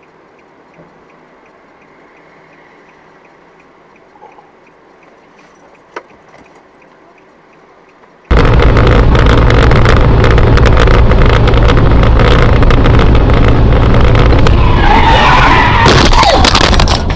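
Car dashcam audio: a faint steady hum, then about eight seconds in a sudden, extremely loud, distorted rush of car noise that overloads the microphone and lasts about nine seconds.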